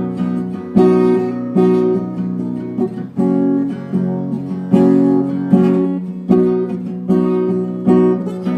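Acoustic guitar strummed in a slow rhythm, chords ringing out between strokes: the instrumental introduction before the singing begins.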